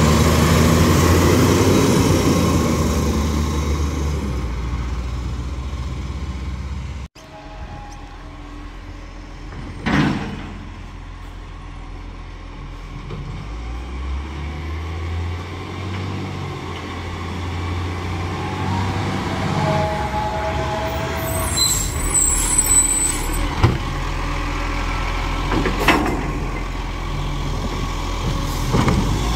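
Garbage truck diesel engine running, with sharp air-brake hisses about ten seconds in and again near the end.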